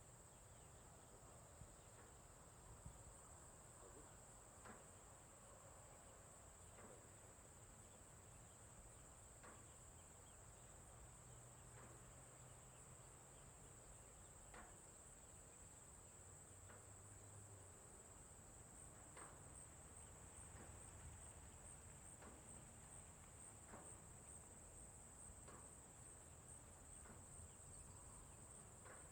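Faint, steady high-pitched trill of crickets, with scattered faint short chirps over it.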